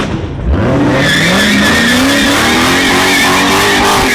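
A car doing a burnout: the engine revs up, its pitch climbing steadily, and the spinning rear tyres squeal loudly with a wavering screech until it cuts off suddenly at the end.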